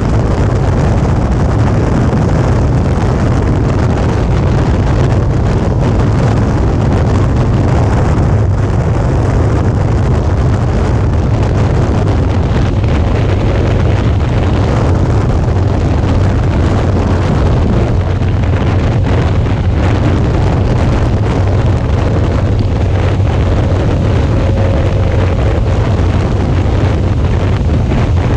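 Suzuki V-Strom 650's V-twin engine running steadily at cruising speed under heavy wind noise on the microphone.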